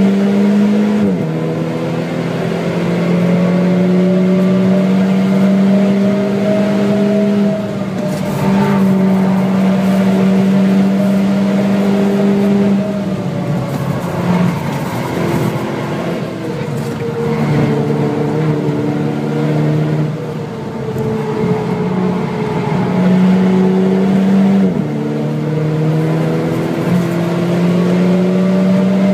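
VW Scirocco 2.0 TSI Stage 2's turbocharged four-cylinder engine pulling hard on track, heard from inside the cabin. Its note holds and then drops suddenly in pitch about three times at the gear changes.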